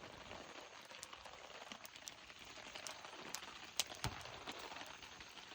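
Heavy rain falling steadily, with a campfire crackling through it; two sharper pops come close together about four seconds in.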